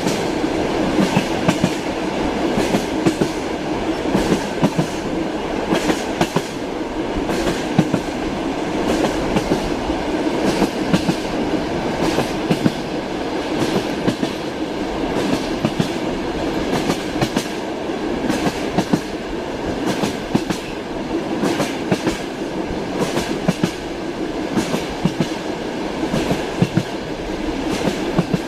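Passenger train running, heard from inside a compartment: a steady rumble with the clickety-clack of the wheels over rail joints repeating throughout.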